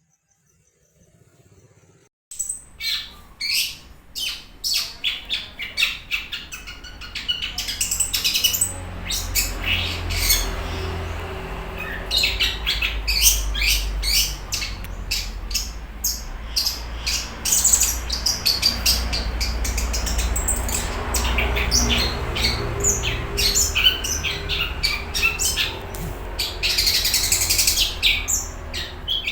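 Long-tailed shrike (cendet) singing a fast, varied chattering song of sharp chirps and squawks, starting about two seconds in after a brief silence, over a steady low rumble.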